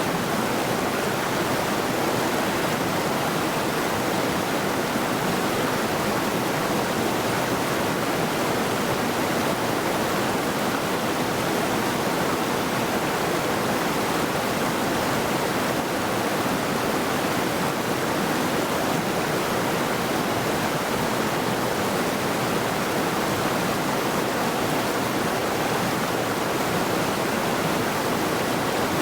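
River water rushing steadily over rocks: a constant, even roar of flowing water.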